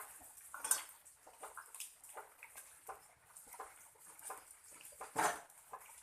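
Small metallic clicks and rustles of hand work with wire on a tree branch, as the wire is wrapped and the branch bent into shape. There are two sharper clicks, about a second in and near the end.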